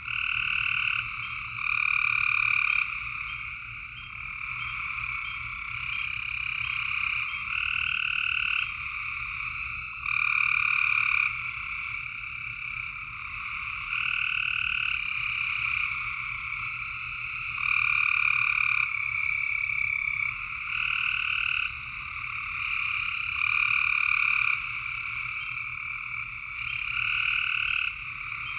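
A chorus of frogs calling: overlapping trills, each lasting about a second, repeating every couple of seconds.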